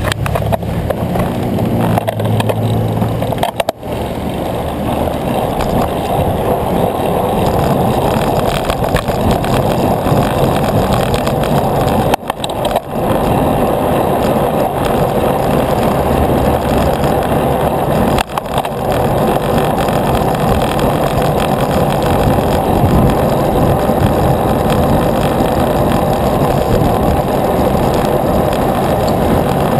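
Steady rushing of wind over the microphone and tyre noise from a bicycle rolling along a road, with a motor vehicle's engine hum in the first few seconds. The noise drops out briefly three times.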